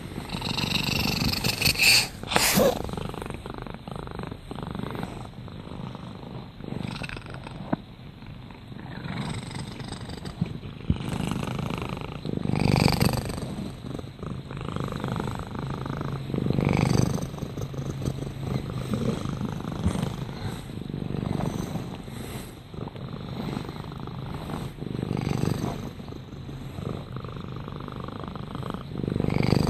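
A domestic cat purring steadily, the purr swelling and fading with each breath about every four seconds. A brief knock about two and a half seconds in.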